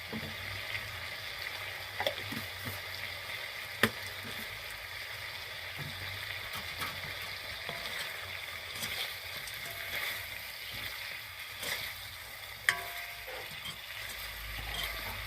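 Food sizzling steadily in hot oil in a cooking pan, with a few sharp knocks of a utensil against the pan as it is stirred.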